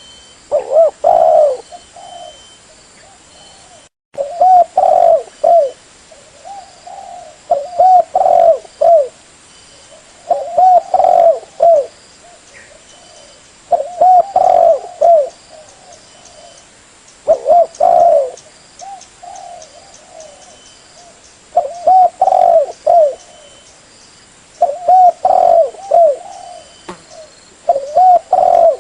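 Spotted dove (tekukur) cooing, a lure call. Each phrase is a handful of quick coos, and the phrase repeats about every three to four seconds, nine times over.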